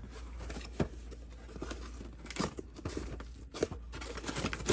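A shipping package being torn open by hand: irregular tearing and crackling of packaging.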